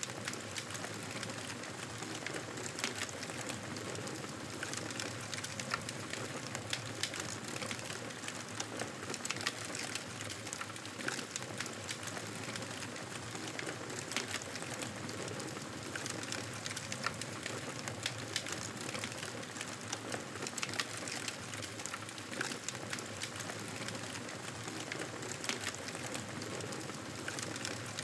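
Campfire crackling: a steady hiss with frequent sharp pops.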